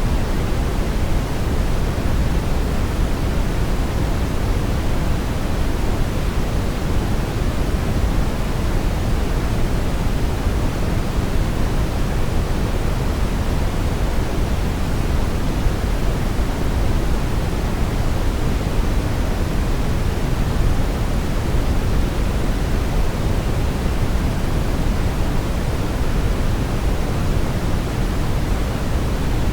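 Steady synthetic brown noise: an even, unbroken rumbling hiss, heaviest in the low end and thinning toward the top.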